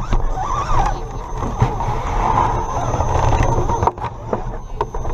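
Redcat Gen7 Pro RC rock crawler's electric motor and gear drivetrain running, heard on board, with scattered clicks and knocks from the tyres and chassis working over rock and a thin steady high whine. The drive noise drops off about four seconds in.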